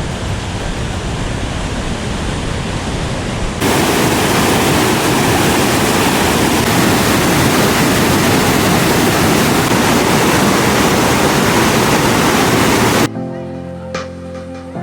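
Loud, steady rushing of whitewater on a river. The noise jumps abruptly louder and fuller about a third of the way in, and background music takes over near the end.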